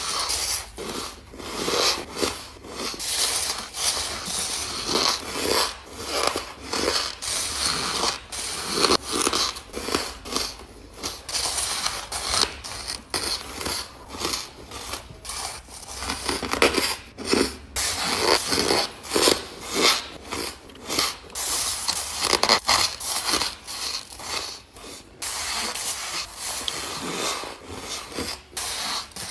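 Soft, powdery ice being bitten and chewed close to the microphone: a rapid run of crisp crunches, about one or two a second.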